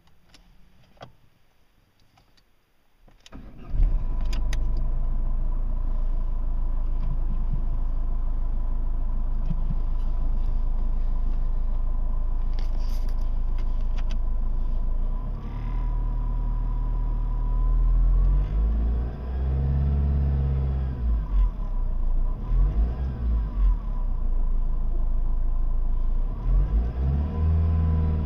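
Ford Focus Mk1 1.8 TDDI four-cylinder diesel engine starting a few seconds in, then idling with a steady high whine over it. In the second half it is revved up and down several times. The strange noise comes from a faulty clutch inside the air-conditioning compressor.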